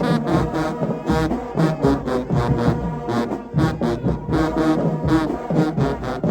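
Marching band playing: loud brass, trombones among them, over a driving drum beat with frequent hits.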